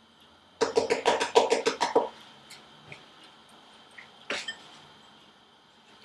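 Hand whisk beating eggs and sugar in a bowl: a run of about eight rapid strokes against the bowl, some six a second, for about a second and a half, then a single knock about four seconds in.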